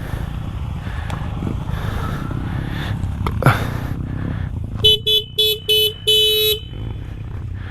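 Vehicle horn sounding four short toots and then one longer one, over the steady running of a motorcycle engine and road noise while riding. A brief knock comes shortly before the horn.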